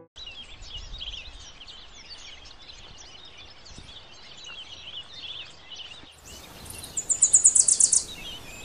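Outdoor background with many small birds chirping. Near the end a louder, rapid, high-pitched trill of about ten pulses a second lasts a little over a second.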